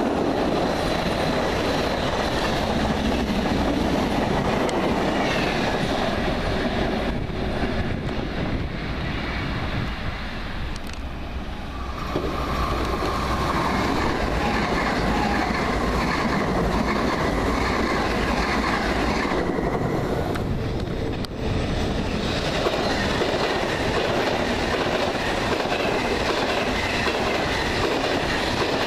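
Passenger trains passing close by one after another, their wheels rumbling and clattering over rail joints. The sound dips briefly about a third of the way in, and a steady whine joins over the middle stretch.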